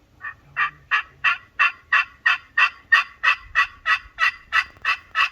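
Turkey yelping: a long, even run of about sixteen loud notes, about three a second.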